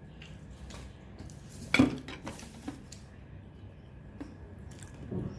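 Cutlery clinking and knocking against a dish a few times, the loudest knock about two seconds in.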